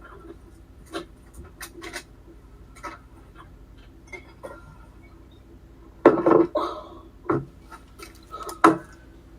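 Household objects being handled and set down: scattered light clicks and clinks, with a louder run of knocks about six seconds in and one more sharp knock near the end.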